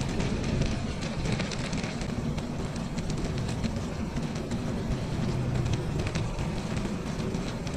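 Steady rumble of wind buffeting the microphone, mixed with bicycle tyre and drivetrain noise while riding, with faint scattered ticks.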